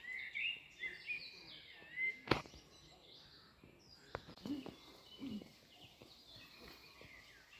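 Small birds chirping and whistling in short warbling phrases, busiest in the first couple of seconds, with one sharp click a little over two seconds in.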